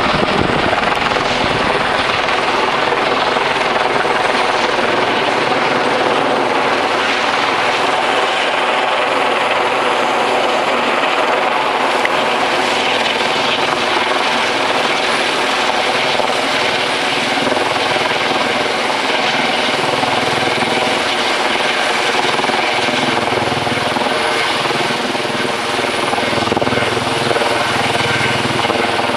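Helicopter hovering low overhead, its rotor and engine noise loud and steady.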